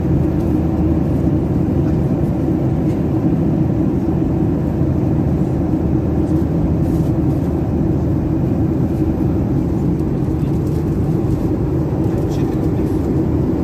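Steady cabin noise of a Boeing 737-800 in flight: an even, unbroken rumble of engines and airflow.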